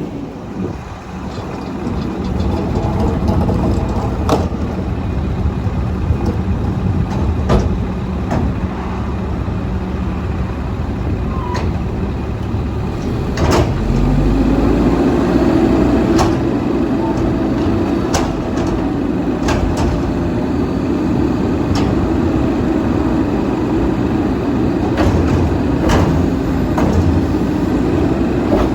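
Straight-piped diesel engine of a Mack MR rear-loader garbage truck running, throttling up to a higher, louder speed about halfway through and holding there. Sharp metallic clanks and knocks sound now and then throughout.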